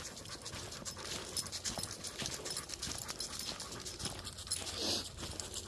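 A dog panting as it walks, with footsteps crunching on the trail throughout.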